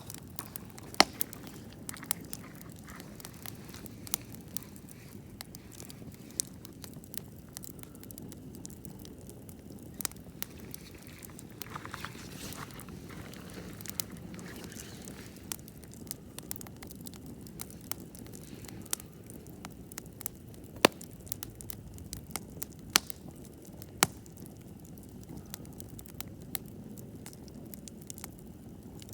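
Wood campfire burning, crackling with frequent irregular sharp pops over a steady low rumble; a few pops are louder, about a second in and twice in the last third.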